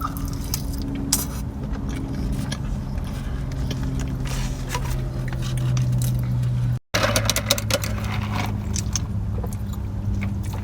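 Crackling, rustling and clicking of food and wrappers being handled and eaten, over a steady low hum. The sound drops out briefly about seven seconds in.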